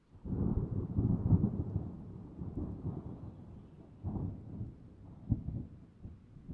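Thunder rumbling, starting suddenly out of silence and rolling on in low swells that fade and build again, with a sharp crack about five seconds in.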